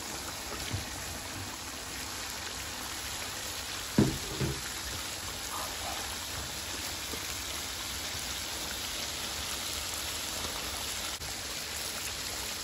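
Mutton karahi frying in a wok with a steady sizzle as tomato wedges are added and stirred in with a spatula. A sharp knock against the wok about four seconds in, with a smaller one just after.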